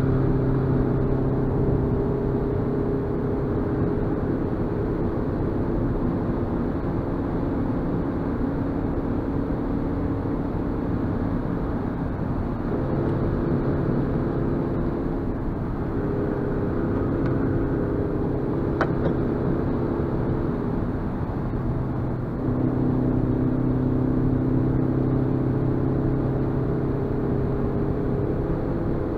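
Suzuki Swift Sport's 1.6-litre four-cylinder engine running under way, heard from inside the cabin along with tyre and road noise. The engine note shifts in pitch a few times and grows louder about 22 seconds in.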